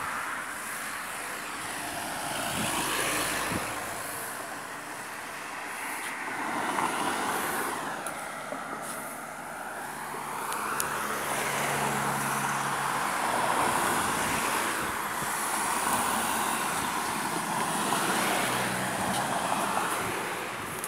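Road traffic: cars passing one after another on the road, the tyre and engine noise swelling and fading every few seconds.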